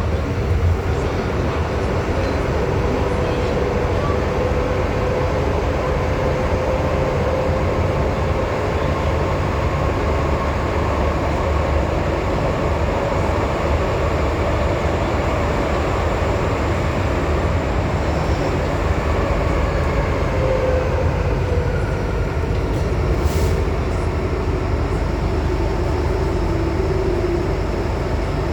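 Cabin running noise of an MTR M-Train electric multiple unit under way in a tunnel: steady wheel-on-rail rumble and hiss, with faint tones from the running gear that drift slowly up and down in pitch. A brief click about three-quarters of the way through.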